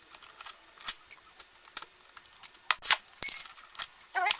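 Motorcycle drive chain clinking and rattling in irregular metallic clicks as its master link is popped off and the chain is pulled free and handled, with a short squeak near the end.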